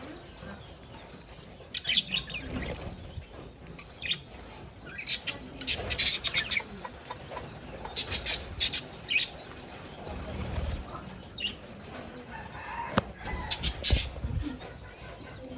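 Caged budgerigars chirping now and then, with three short bursts of fluttering wings.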